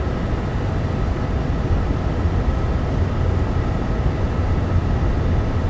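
Steady road and engine noise of a moving car heard from inside the cabin, a low rumble with a faint hum above it, cutting in suddenly at the start.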